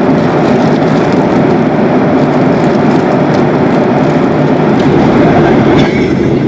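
Steady, loud cabin noise of a Boeing 737-800 on the ground after landing, its CFM56-7B engines running at low taxi power under a constant rumble. The sound dips slightly and changes character near the end.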